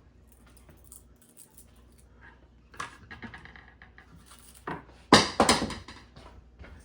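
Small clicks and knocks of parts and tools being handled on a table, then about five seconds in a loud rapid metallic clatter as a screwdriver rolls off the table and hits the floor.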